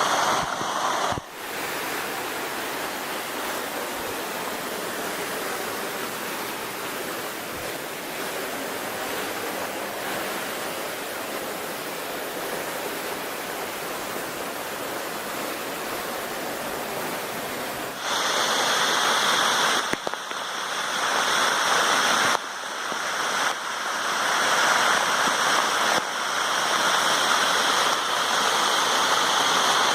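Waterfall running high after heavy rain: a steady rush of falling water. A little past halfway it jumps louder and brighter, with several abrupt shifts in level.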